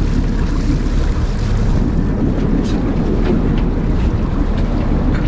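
Wind rumbling on the microphone over the steady wash of water along a small boat on open water.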